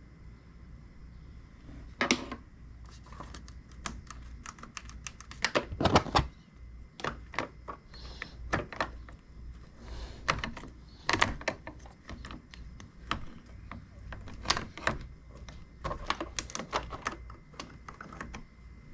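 Irregular clicks and taps of small plastic parts being handled during work on a car's LED light switch, with a few louder knocks about two and six seconds in.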